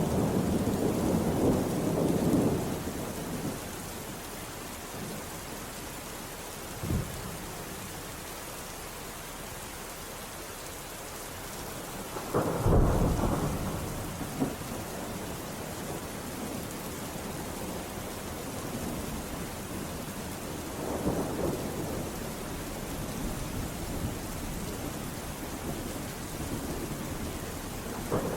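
Steady heavy rain with thunder rolling in low swells. A sharper, louder thunderclap comes about halfway through.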